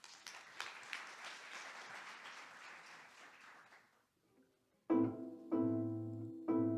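Audience applause that dies away over about four seconds. After a brief silence, music starts with a run of sharp plucked string notes over a low held tone.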